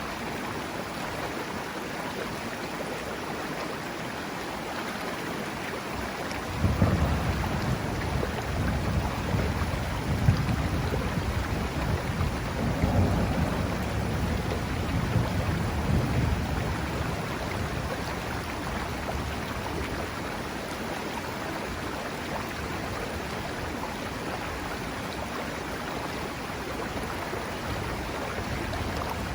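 Steady rushing of a mountain river, with a low roll of thunder that breaks in about a quarter of the way through, swells several times for about ten seconds and then dies away.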